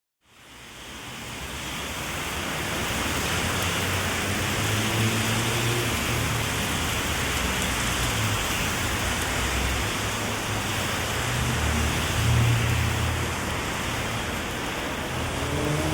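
Heavy rain falling, a steady hiss that fades in at the start, with a low rumble of passing traffic swelling twice.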